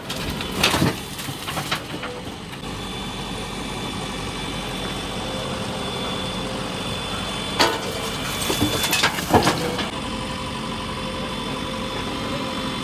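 Diesel engine of heavy machinery running steadily, with a few sharp knocks or clanks near the start and again about eight to nine seconds in.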